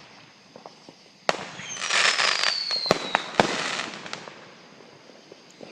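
Consumer fireworks going off: a sharp bang about a second in, then a thin whistle falling in pitch over a crackling hiss, with two more sharp pops near the middle before it fades.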